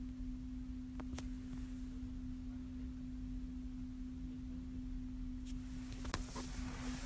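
A car's steady electrical hum, a single pure tone that holds without change, heard only while the headlights are switched on; its cause is unknown to the owner. A click about a second in and a few more near the end.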